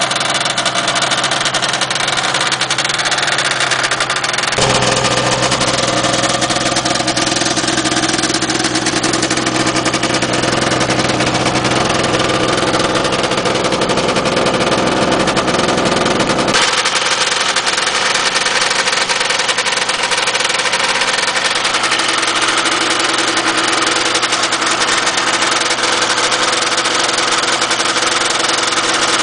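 1979 Ski-Doo Blizzard 7500 Plus snowmobile's two-stroke engine running steadily, a rebuild said to have taken about 16 pistons to get running well. Its note turns deeper and fuller about four seconds in and goes back to a lighter note about halfway through.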